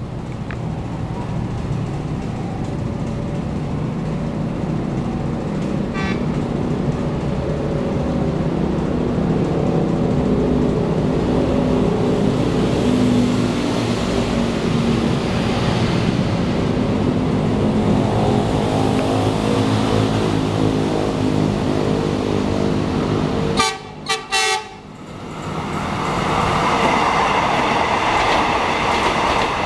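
KRL i9000 electric commuter train approaching and running through the station without stopping. A steady low rumble grows over about twenty seconds, a few short horn blasts come near the end, and then the train passes close by with a rushing noise and a high whine.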